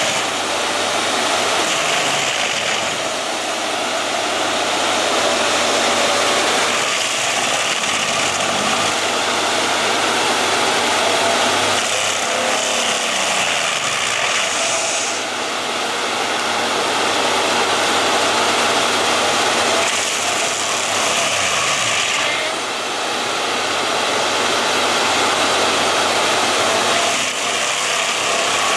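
A machine running with a steady, noisy sound that swells and eases every few seconds.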